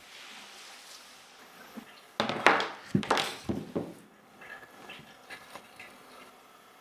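Hard plastic keyboard parts being handled during cleaning: a quick run of clattering knocks and scrapes about two seconds in, followed by a few light taps.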